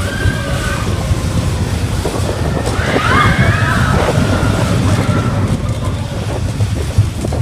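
Roller coaster train running on its track: a loud, steady low rumble mixed with wind buffeting the microphone, with high wavering cries from riders about three seconds in.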